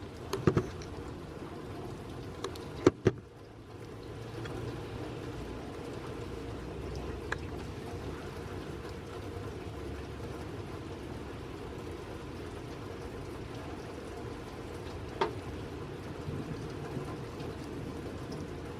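Light rain falling steadily, with a few sharp taps, the loudest a pair about three seconds in.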